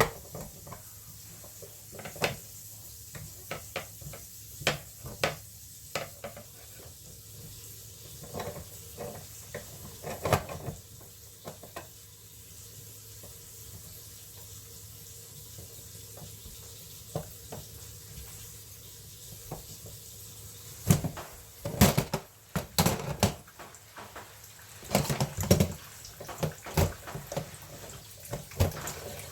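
Scattered metal clicks and clinks of a tool working on a kitchen mixer tap as the hot-water ceramic gland is loosened and unscrewed, with a run of louder, closer-spaced knocks near the end.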